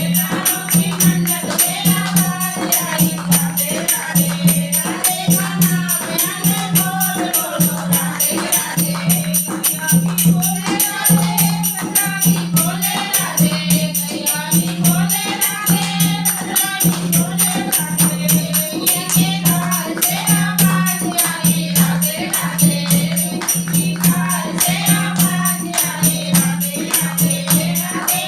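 A Hindu devotional bhajan sung by a group of voices, with a dholak drum and jingling hand percussion keeping a steady, even beat.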